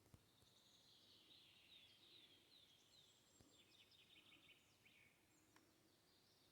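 Near silence with faint songbird singing: a run of short falling notes, then a brief buzzy trill. A faint click comes just after the start.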